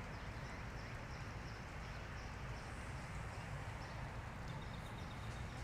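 Quiet outdoor ambience: a steady low rumble and hiss, with faint high chirps repeating throughout.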